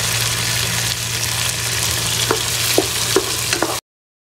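Chopped tomatoes and onions sizzling in oil in a pan as a spatula stirs them, with a few sharp scrapes and taps of the spatula; the tomatoes are frying down for a biryani masala. The sound cuts off suddenly near the end.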